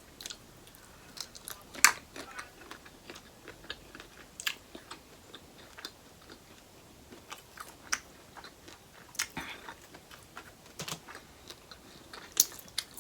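A person eating a seafood boil close to the microphone: chewing and biting, heard as irregular short clicks and crunches, the sharpest about two seconds in.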